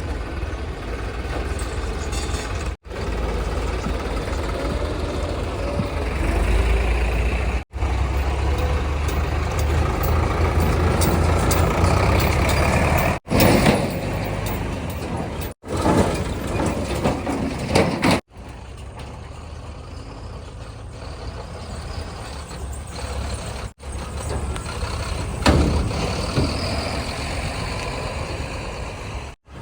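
Heavy diesel engines of a JCB 3DX backhoe loader and tipper trucks running and revving under load, the sound swelling and easing. The sound breaks off abruptly several times as one short clip cuts to the next.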